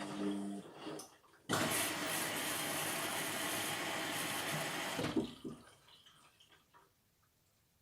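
Indesit MTWC71252WUK washing machine: a steady hum cuts off in the first second, then water rushes into the machine for about three and a half seconds, starting and stopping abruptly, and the sound fades to near silence.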